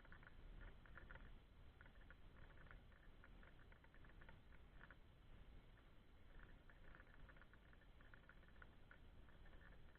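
Cats chewing food, faint quick crunching clicks in runs with short gaps.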